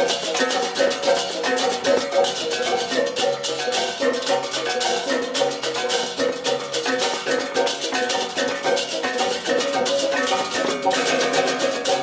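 Balinese gamelan music: ringing pitched gongs and metallophones over fast, dense cymbal and drum playing, with no break.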